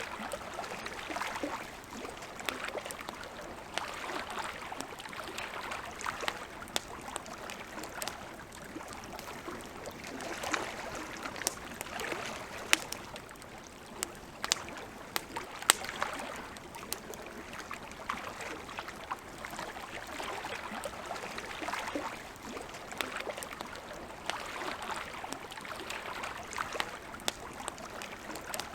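Wood fire crackling, with sharp snaps and a few louder pops around the middle, over small lake waves lapping in a gentle swell every couple of seconds.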